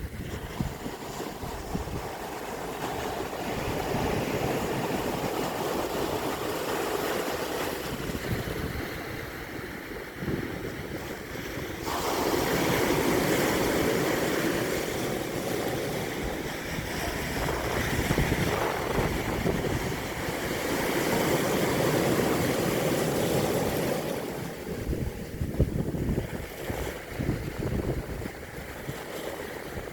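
Sea surf breaking and washing on a beach, swelling and easing in long surges, with wind gusting on the microphone.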